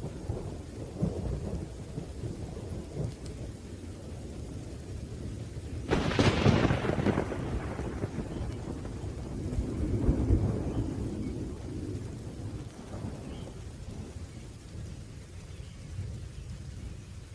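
Thunderstorm: low rolling thunder rumbling over steady rain, with a sharp thunderclap about six seconds in that fades over a couple of seconds, and another swell of rumble a few seconds later.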